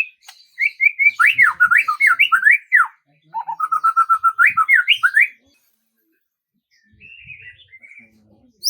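A songbird singing a fast, loud phrase of rapidly repeated sweeping whistled notes that shifts partway through into a lower, quicker trill, lasting about five seconds. After a pause of over a second, softer twittering follows near the end.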